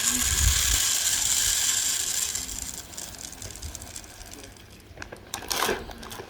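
Bird seed pouring and rattling into a plastic bird feeder, a dense hiss of tiny clicks that fades away over about three seconds. A short clatter follows near the end.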